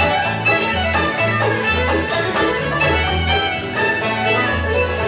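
Live band playing bluegrass-style music, with a fiddle leading over banjo and guitar and a bass line changing note about twice a second.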